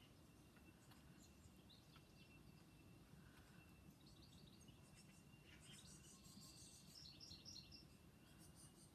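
Faint birdsong: short runs of quick chirps about four seconds in and again near seven seconds, over a low steady background rumble and a faint thin steady high whine.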